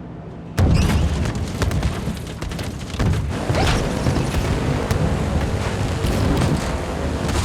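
Film soundtrack: music comes in suddenly about half a second in, over a heavy low rumble with booms that runs on to the end.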